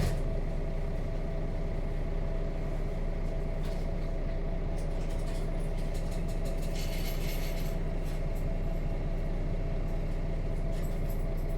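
Nissan Diesel FE6 inline-six diesel engine of a KC-RM211GSN route bus running steadily, heard from inside the cabin, with a single sharp click right at the start.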